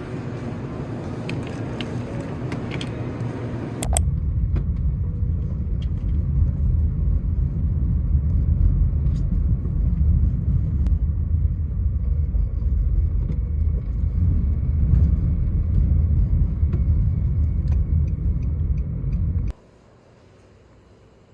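Background music for about the first four seconds, then a steady, loud low rumble like a vehicle in motion, which cuts off suddenly near the end.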